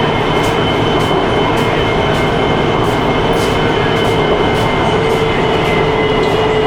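Wuxi Metro Line 1 train running through a tunnel between stations: a steady, loud rumble of wheels on rail with a steady whine, and light regular ticks about twice a second.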